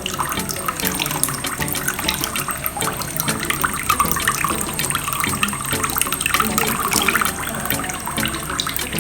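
Small streams of water pouring from holes in a plastic bottle and splashing steadily into a basin, a continuous spattering trickle like a running tap.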